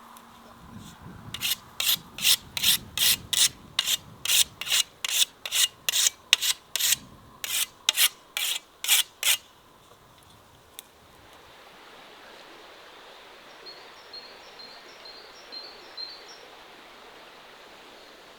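About twenty rhythmic scraping strokes, roughly three a second, which stop after about eight seconds. A faint steady hiss follows.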